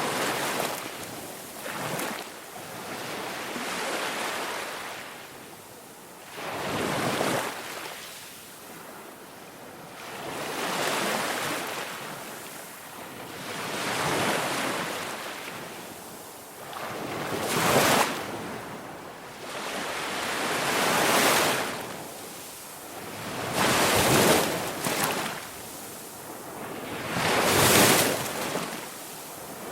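Waves washing onto a shore: a rushing surge that swells and fades every three to four seconds.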